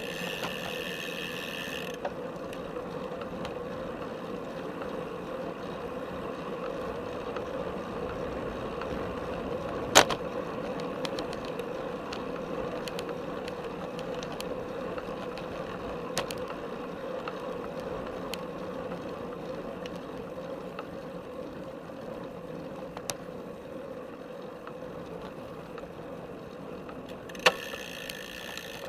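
Road bike in motion, heard through a camera strapped to its top tube: steady tyre and drivetrain noise with frame rattle and sharp knocks from bumps, the loudest about ten seconds in and another near the end. A high steady whirr is heard for the first two seconds and again near the end.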